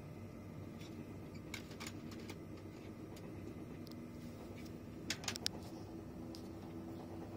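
Steady running noise of a TGV Réseau high-speed train heard inside the passenger cabin: a low drone with a few faint clicks, and a short cluster of sharper ticks about five seconds in.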